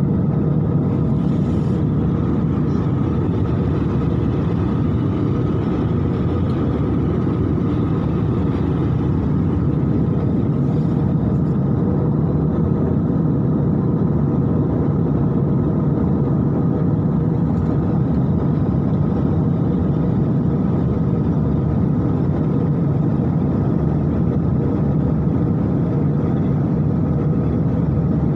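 Airliner cabin noise in flight: a steady, constant low rumble of engines and rushing air heard from inside the passenger cabin.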